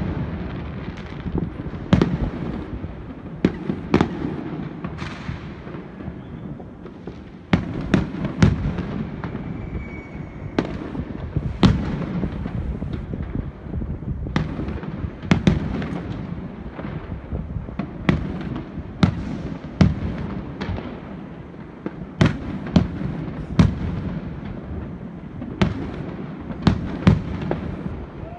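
Fireworks display: aerial shells bursting in a rapid, irregular series of sharp bangs, often several a second, over a steady crackling rumble.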